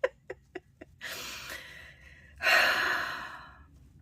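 A woman breathes in and then lets out a long, louder sigh, after a few small clicks in the first second.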